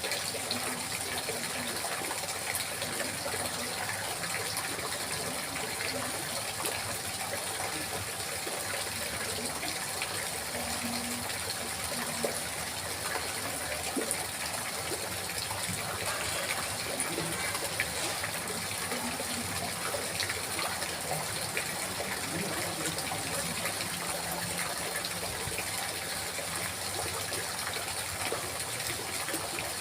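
Water trickling and gurgling steadily, an even rush with small scattered splashes.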